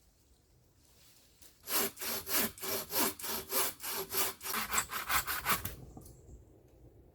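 Hand saw cutting through wood with quick back-and-forth strokes, about four a second, starting a couple of seconds in and stopping suddenly after about four seconds.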